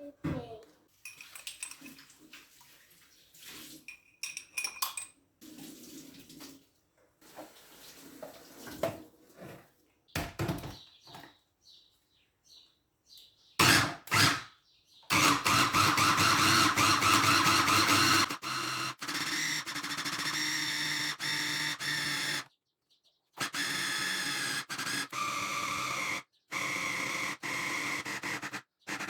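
Light taps and clinks of kitchen utensils, then a small electric kitchen appliance motor running steadily for several stretches that start and stop abruptly.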